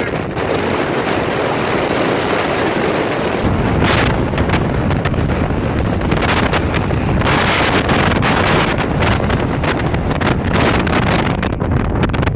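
Arctic windstorm wind buffeting the microphone: a loud, continuous rush with heavy low rumble, surging in gusts about four seconds in and again around six to seven seconds.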